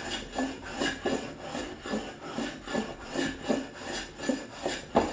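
No. 60½ low-angle block plane with a freshly sharpened blade taking shavings off a board, short cutting strokes about two a second. The clean hiss of each stroke is the sign of a keen edge.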